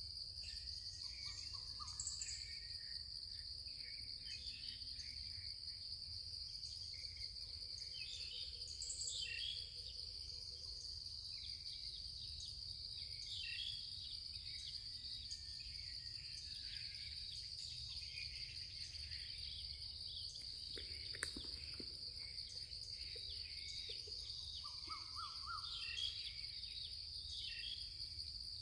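Forest ambience: a steady, high, continuous insect drone of crickets or cicadas, with many short bird calls scattered through it and a faint low rumble underneath.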